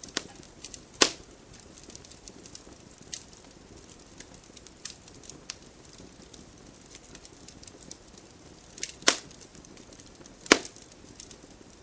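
Wood fire in a fireplace crackling: a soft hiss under scattered small ticks, with three sharp loud pops, one about a second in and two close together near the end.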